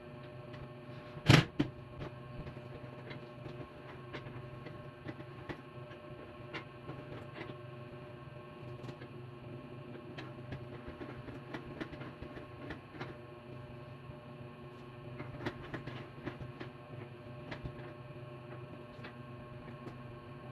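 Parts and tools being handled during work-table assembly: scattered light clicks and taps and one sharp knock about a second in, over a steady hum.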